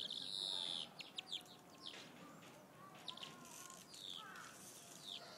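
Faint high bird chirps: a longer call in the first second, then several short chirps, most of them falling in pitch.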